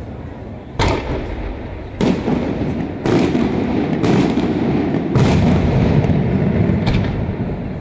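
Aerial firework shells bursting overhead: about six loud bangs, roughly a second apart, each followed by a lingering rumbling echo.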